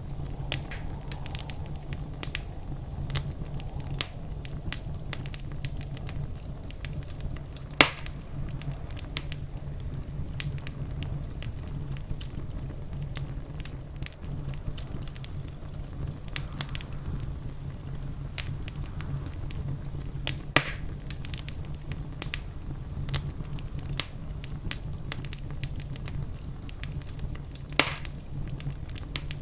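Fireplace fire crackling, with a steady low rumble under a constant scatter of small crackles. Three much louder pops stand out: one about eight seconds in, one past the middle and one near the end.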